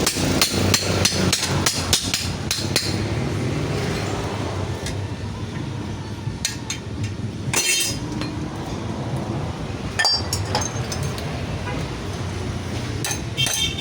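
Hammer blows on metal while a refrigerator is broken up for scrap: a quick run of strikes, about three or four a second, for the first few seconds, then scattered single knocks and a short cluster of strikes near the end.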